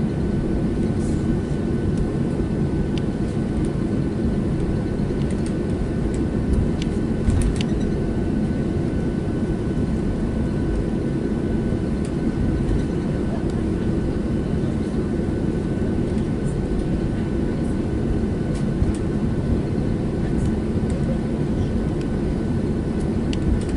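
Steady cabin noise inside a Boeing 737-700 airliner: the low rumble of its CFM56 jet engines and airflow, with a faint steady whine. A few light clicks and rattles sound about seven seconds in and again near the end.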